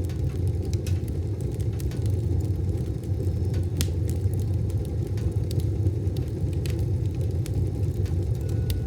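Wood-burning stove fire with a steady low rumble and scattered sharp crackles and pops at irregular intervals.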